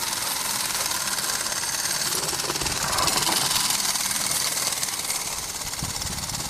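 Gas-fired model steam traction engine running smoothly under steam: a fast, even mechanical beat over a steady hiss.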